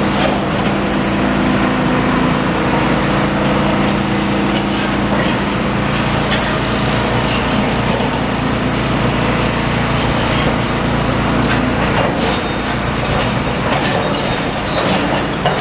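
Demolition excavator's diesel engine running steadily as its hydraulic crusher jaws work a slab of concrete flooring, with scattered cracks and knocks of breaking concrete.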